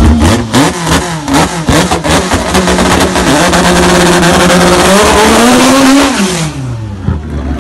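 A modified street-race car's engine revved hard at the start line with sharp pops and cracks, then launching at full throttle and pulling hard, its pitch rising through a gear change. About six seconds in, the pitch drops steeply and the sound fades as the car speeds away.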